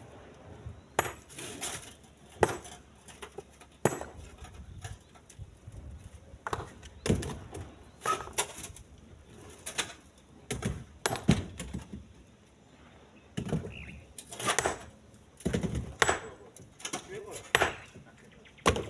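Irregular knocks and clunks of split stones being tossed by hand into a truck bed and striking one another, one every second or so, sometimes several in quick succession.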